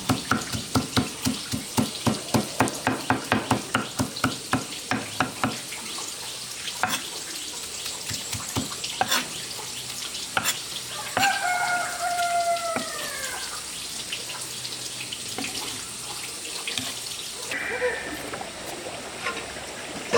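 Rooster crowing once about eleven seconds in, a long call falling in pitch, with a shorter call near the end. Before it, quick rhythmic knocks, about four or five a second, run for the first five seconds.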